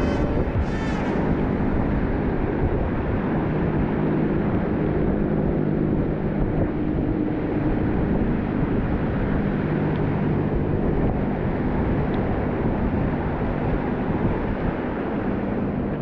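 Wind rumbling steadily on the microphone over the noise of ocean surf.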